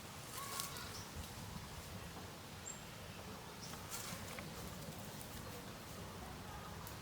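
Faint rural outdoor ambience with a steady low rumble, a few brief bird chirps and scattered light clicks.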